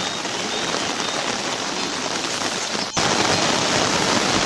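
Heavy rain falling steadily. About three seconds in it cuts abruptly to a louder, deeper rushing sound.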